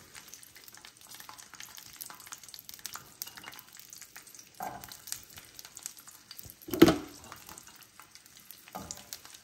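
Garlic cloves frying gently in hot oil in a stainless steel pan, with a soft sizzle and scattered small crackles. The cloves are stirred, with a brief loud clank of the spoon against the pan about seven seconds in.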